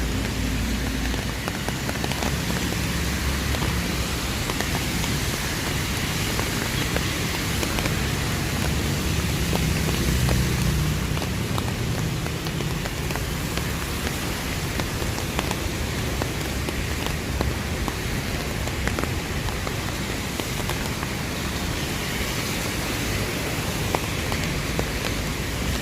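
Steady rain falling on the street and pavement, an even hiss with scattered drop clicks. A low traffic rumble swells and passes about ten seconds in.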